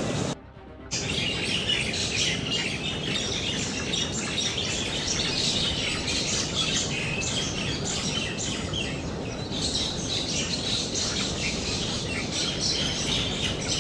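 Many small birds chirping densely and continuously over a steady low background hiss, starting about a second in after a brief drop in level.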